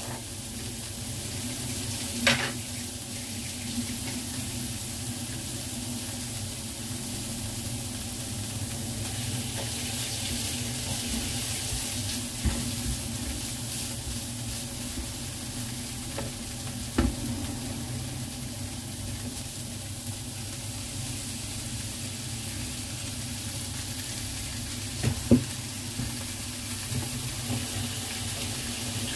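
Diced meat and onion sizzling in a nonstick frying pan while a plastic spatula stirs and scrapes through it, with a few sharp knocks of the spatula against the pan.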